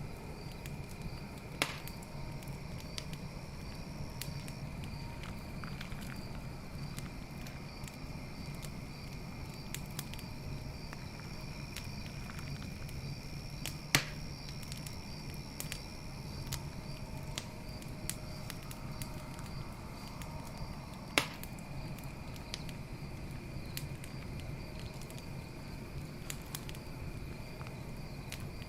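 Campfire crackling with scattered small pops and three louder snaps, about 2, 14 and 21 seconds in, over a low steady rumble. Night insects chirp steadily in the background.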